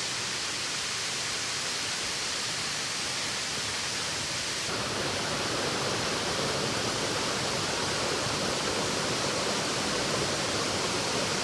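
Waterfall: a steady, even rush of falling water, growing fuller in its lower range about five seconds in.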